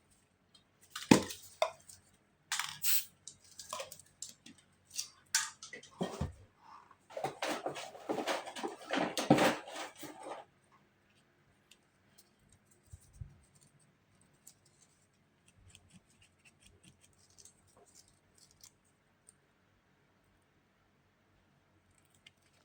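Irregular scraping, rustling and tapping of hand tools and paper during spray-paint art work, busiest in the first ten seconds and then thinning to faint scattered clicks.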